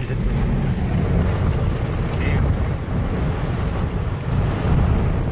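Severe thunderstorm winds gusting toward 90 mph, buffeting the microphone: a loud, steady rush heavy in the low end.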